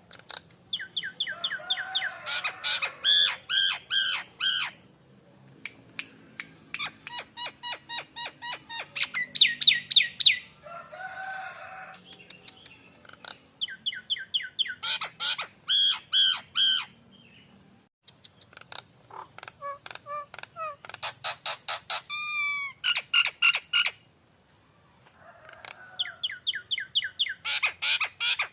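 Jalak nias singing: bouts a few seconds long of rapid, repeated clicking and whistled notes, with short pauses between them and a lower, harsher call about eleven seconds in.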